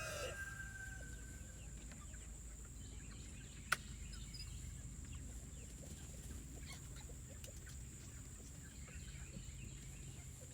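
Chickens clucking faintly and sporadically over a low steady background, with one sharp click about four seconds in.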